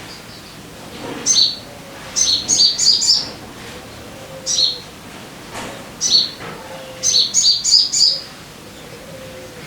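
Sogon bird song: sharp, downward-slurred chirps, some single and others in rapid runs of four or five notes, over a steady hiss.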